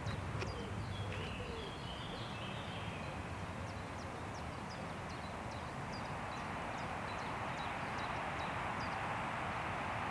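Wind rushing through forest trees, swelling into a stronger gust in the second half. Over it a songbird repeats short, high chirps about once or twice a second, with some brief twittering in the first few seconds.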